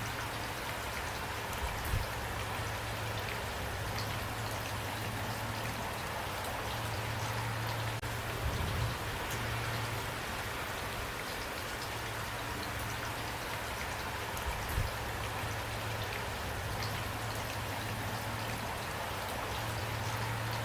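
Steady rain falling and pattering on a surface, with a few brief low thuds.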